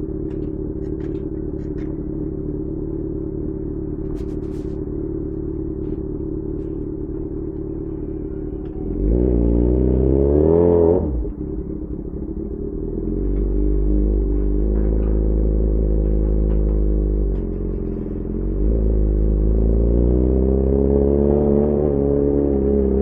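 Yamaha XJ6 S inline-four motorcycle with an SC-Project aftermarket exhaust idling steadily, then revved once about nine seconds in, pitch rising and falling quickly. From about thirteen seconds it runs louder under throttle, pitch climbing and easing off as it rides away.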